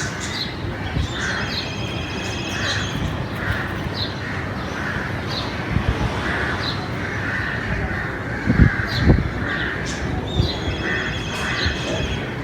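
Crows cawing over and over in short calls, with smaller birds chirping and a rapid trill twice. Two dull thumps come about nine seconds in.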